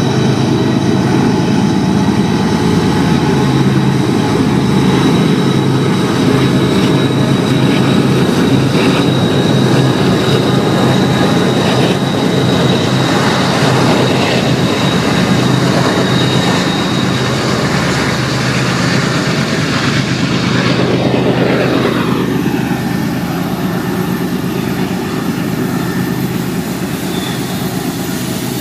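BNSF intermodal freight train passing close: a steady heavy rumble of rolling cars on the rails with a thin high wheel squeal from the curve. About 21 seconds in, the higher sound falls in pitch and drops away as the train moves past.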